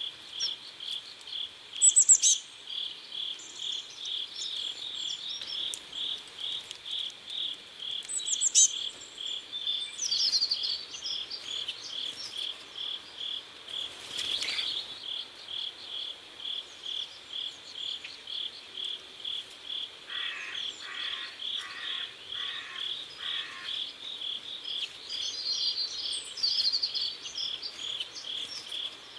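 Crickets chirping in an even pulse, about two chirps a second, with birds giving short calls now and then over it.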